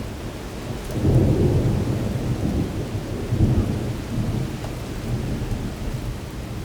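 Thunderstorm with heavy rain falling and a low rumble that swells about a second in and eases off toward the end.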